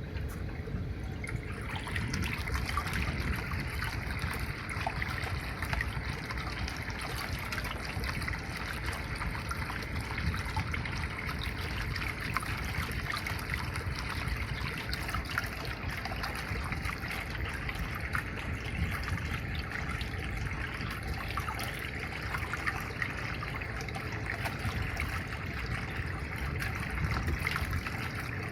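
Water trickling and running steadily, with small splashes scattered through it.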